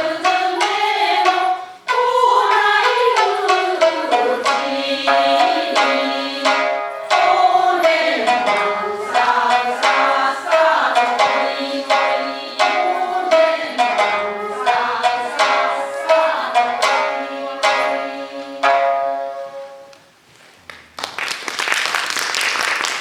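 Japanese folk song (min'yō) sung by a group over plucked shamisen accompaniment, ending about twenty seconds in, followed by applause.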